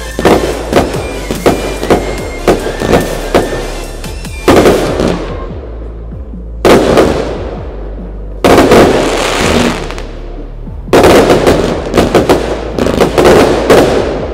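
Fireworks display: a quick run of sharp bangs, then big shell bursts about every two seconds, each with a long fading tail. A dense, rapid volley of bangs follows near the end.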